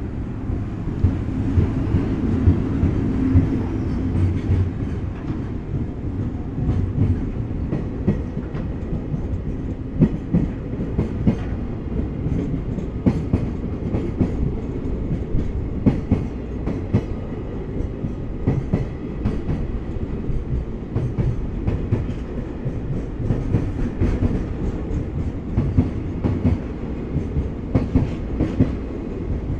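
Container freight train hauled by an EF65 electric locomotive passing close by: a steady low rumble of wagons with a continual irregular clatter of wheels over rail joints.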